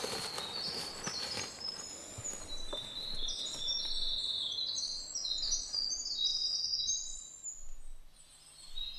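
Forest songbirds calling, many short high whistled notes overlapping one another. A few footsteps on the forest floor are heard in the first second or so.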